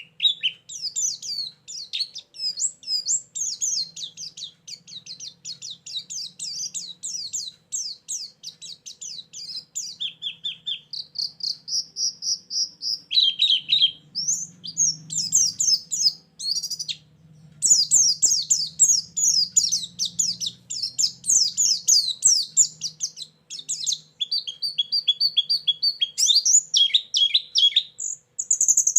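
White-eye (pleci) song used as a lure and fill-in recording: a fast, continuous run of high chirps and trills, with a short held whistle partway through.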